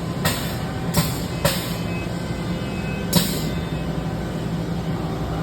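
Steady low machinery hum, with four sharp clicks or knocks spread over the first three seconds.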